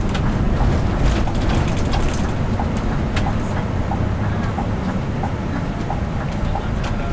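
Scania K360i coach at highway speed, heard from inside the passenger cabin: a steady low engine and road rumble with scattered rattles and knocks from the body.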